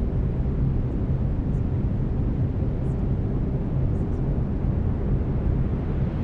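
Steady brown noise: a deep, even hiss heaviest in the low end and unchanging throughout, with a faint low steady tone from the binaural-beat layer underneath.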